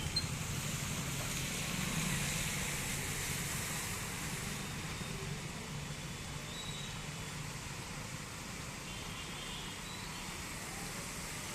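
Steady motor vehicle engine noise with an even hiss above it.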